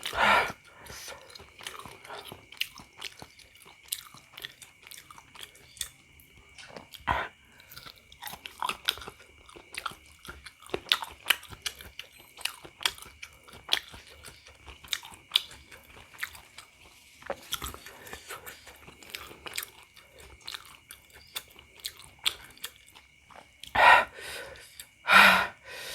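Close-up chewing of spicy beef meatballs (pentol bakso): many small wet mouth clicks and chewing sounds, with three louder sounds near the end. A faint steady high-pitched hum runs underneath.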